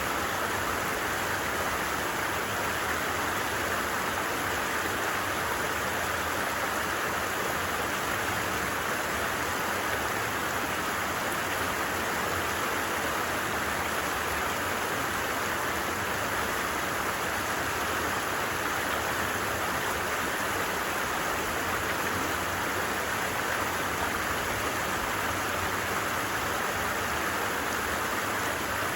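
Stream babbling steadily, a constant, even wash of running water.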